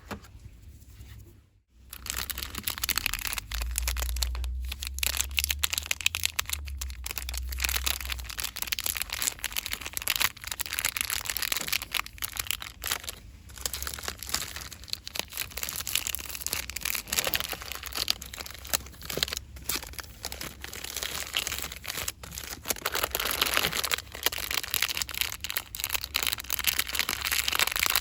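Close-up rustling and crinkling of handled items, a dense crackly texture of fine crackles that starts after a brief pause about a second and a half in.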